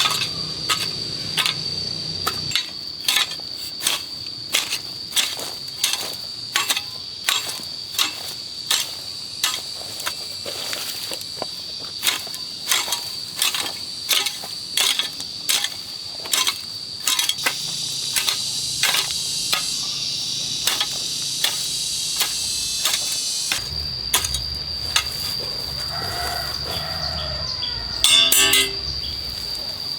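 Repeated sharp knocks, about one and a half a second, that stop about three quarters of the way through. A steady high-pitched insect drone, like crickets or cicadas, runs throughout. A short louder sound comes near the end.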